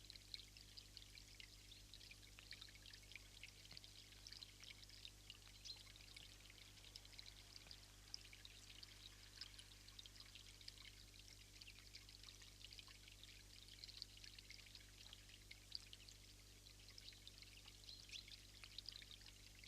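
Faint, steady patter of water: a dense scatter of tiny ticks with no letup, over a low steady hum.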